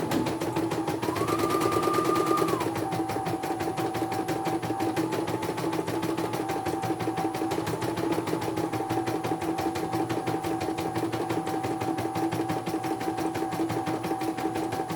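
Computerised embroidery machine stitching: a fast, steady needle clatter with a motor whine that rises in pitch about a second in and drops back a moment later.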